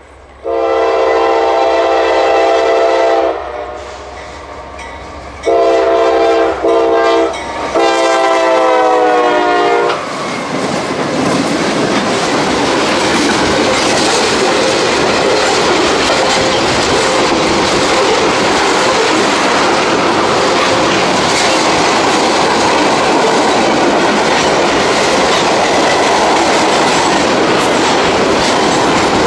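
Diesel freight locomotive's air horn, a chord of several notes, sounding the grade-crossing signal: two long blasts, a short one and a final long one whose pitch drops as the locomotive passes. Then the Norfolk Southern freight train rolls by with steady wheel clatter and rumble.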